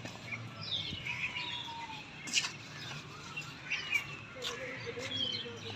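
Small birds chirping and twittering, many short overlapping calls, with a few sharp clicks, the loudest about two and a half seconds in.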